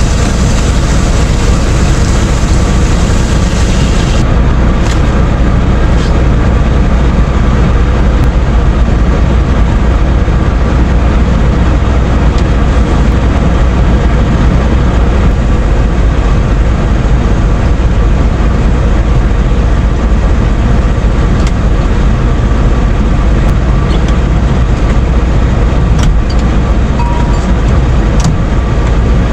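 Steady deep rumble of a heavy engine idling, mixed with meat sizzling in hot olive oil and a few sharp pops of spattering oil.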